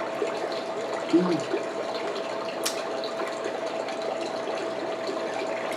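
A steady hiss with a constant faint hum runs throughout. About a second in comes a short rising-and-falling "mm" from the eater, and a single small click comes near three seconds.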